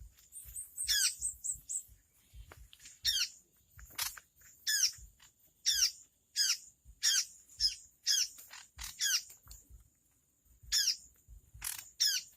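A ciung air (tit-babbler) calling over and over, each call a short, harsh note that falls in pitch, about one or two a second with a brief pause near the middle. A faint, steady high-pitched tone runs underneath.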